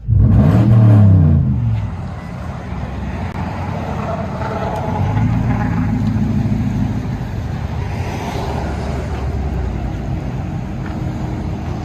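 2006 Toyota Tundra 4.7 L V8 with a straight-piped true dual exhaust, revving with its pitch rising and falling in the first two seconds, then running on at a steadier drone.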